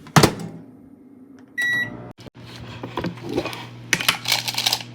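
Microwave oven door shut with a thud, a single keypad beep, then the oven starts running with a steady low hum. Some clattering of handling noise over the hum near the end.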